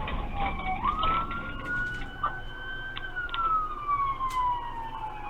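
Police car siren wailing. Its pitch dips, jumps up about a second in, climbs gently, then slides slowly down toward the end. Low vehicle rumble runs underneath.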